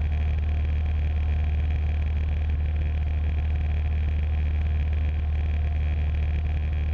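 Cessna 150's four-cylinder Continental O-200 engine and propeller droning steadily in flight, heard through the aviation headset intercom feed with a strong low hum.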